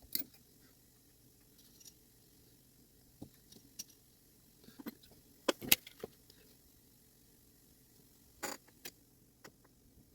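Small metal parts of a clock movement being handled and fitted: irregular light clicks and taps, the sharpest pair about five and a half seconds in and another clink about eight and a half seconds in.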